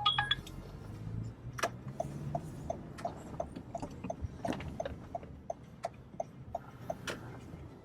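Car turn-signal indicator ticking steadily, about three ticks a second, from about two seconds in, with a few louder sharp clicks among the ticks.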